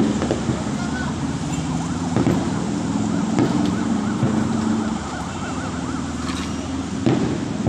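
Steady street traffic rumble with a rapidly warbling yelp siren for a couple of seconds in the middle, and a few sharp pops scattered through.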